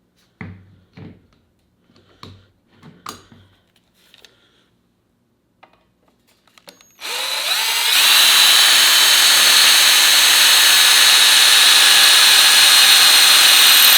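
A few light metal clanks, then about halfway through a power drill spins up and runs steadily at high speed for several seconds, boring into metal exhaust parts lubricated with penetrating oil.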